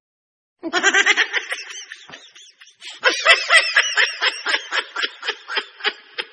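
Laughter in quick, rhythmic bursts. It starts about half a second in, pauses briefly, then comes again more strongly from about three seconds in at roughly five bursts a second.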